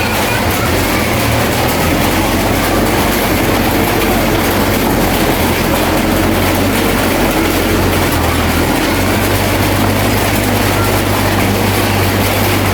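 Bulldozer's diesel engine running steadily under a dense, even hiss, with a low hum that shifts slightly about nine seconds in.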